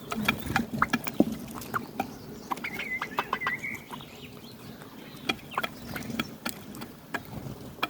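Domestic hens clucking softly, with many short sharp ticks scattered throughout and a brief high call about three seconds in.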